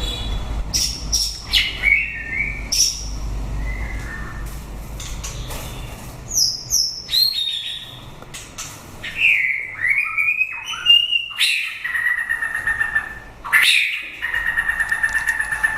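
White-rumped shama singing a varied phrase of clear whistles, sliding notes and sharp chips, with two long rapid trills in the second half.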